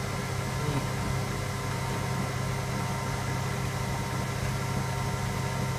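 Electra AWF683 front-loading washing machine running with a steady, even motor hum.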